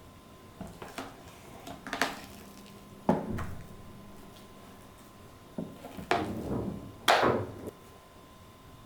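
Dishes and kitchen utensils being handled and set down: a series of separate knocks and clatters, with a longer rattle about six seconds in and the loudest clatter just after it.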